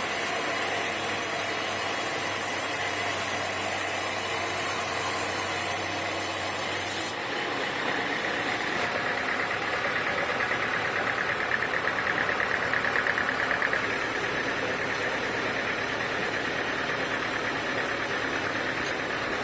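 Sawmill machinery running steadily. The sound shifts abruptly about seven seconds in, and a fast-pulsing whine comes up for several seconds after that.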